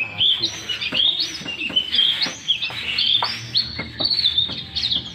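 Songbird singing without a break: a rapid, varied run of chirps, whistled sweeps and sharp clicks, the 'gacor' (constant, vigorous) singing prized by bird keepers.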